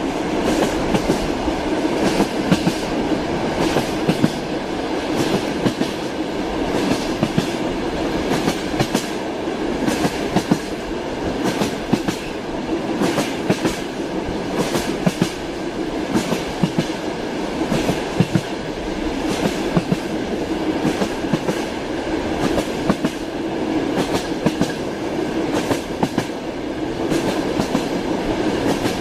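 Train wheels clattering over rail joints: a steady rumble of a running train with frequent sharp clicks.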